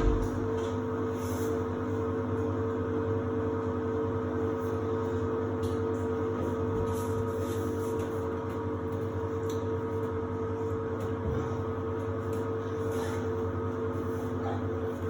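Samsung WD70T4047CE washer-dryer running in its drying stage: a steady machine hum with several constant tones and a few faint ticks.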